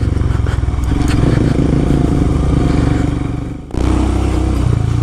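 Royal Enfield Himalayan's single-cylinder engine running on the move. Its sound sags and dips briefly about three-quarters of the way through, then comes straight back.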